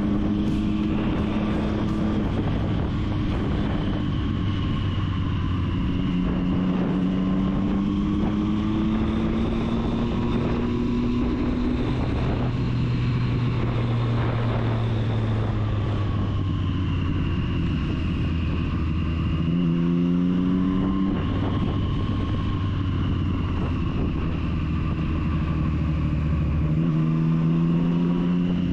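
Triumph Street Triple's three-cylinder engine running under way, its pitch climbing slowly and then stepping down at several gear changes, with a quick rev-up about two-thirds of the way through.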